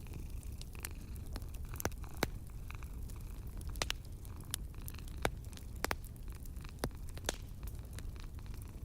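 Wood fire crackling in a fireplace: irregular sharp pops and snaps, half a dozen louder than the rest, over a steady low rumble of the flames.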